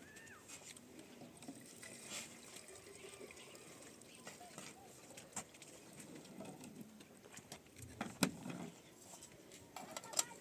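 Faint scattered clicks and light knocks, with one sharper knock about eight seconds in, over faint distant voices.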